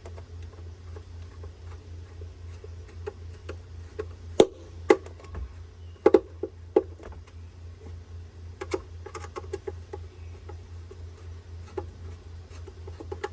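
Scattered light clicks and knocks of hard plastic parts and screws being handled and fitted as the plastic housing of a pool robot vacuum is screwed back together, over a steady low hum.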